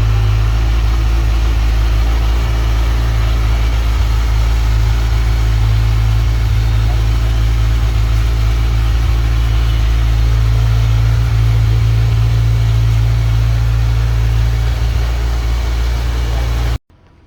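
Motorcycle engine running loud and steady at an even speed, cutting off abruptly near the end.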